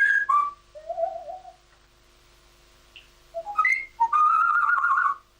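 A bird singing a whistled song. A run of clear notes falls in pitch, then after a pause a few notes climb, and the phrase ends on one long, wavering whistled note near the end.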